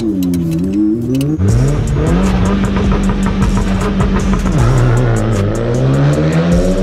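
Car engine running and revving: its pitch holds steady, drops about halfway through, then climbs again.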